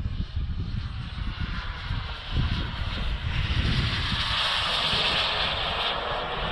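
Turbine engine of a radio-controlled Avanti model jet in flight, a steady rushing whine. It grows louder through the second half as the jet comes past.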